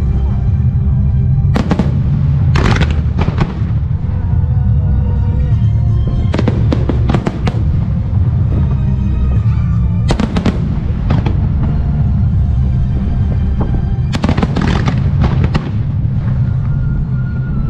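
Music starmine fireworks: barrages of shells bursting with a constant deep rumble and bursts of sharp crackling every few seconds, set to music synchronized with the show.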